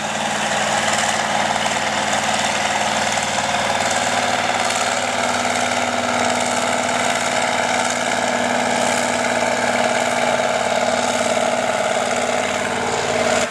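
Cummins 903 V8 diesel, repowered into a John Deere 6030 pulling tractor, running hard and steady under load down the track, then dropping away near the end.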